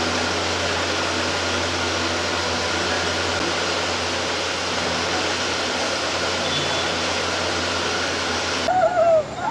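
Steady loud rushing noise, like a large fan or air cooler running, with faint voices under it. It cuts off abruptly near the end and a voice takes over.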